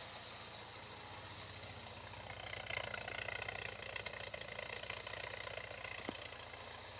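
Toyota 18R-G twin-cam, fuel-injected 2.0-litre inline-four engine idling steadily, a little louder in the middle.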